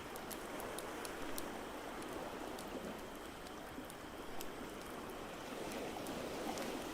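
Steady rushing of ocean waves as an even wash of water noise, with irregular sharp crackles and pops from a wood fire in a fireplace scattered through it.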